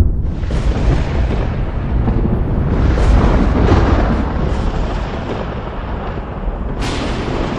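Thunder: a long, loud rolling rumble that swells for a few seconds, with a sharper crack just before the end.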